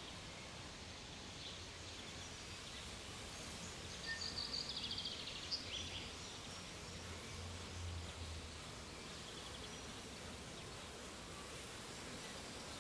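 Honeybees buzzing steadily around an opened hive, with a short run of high chirps in the middle.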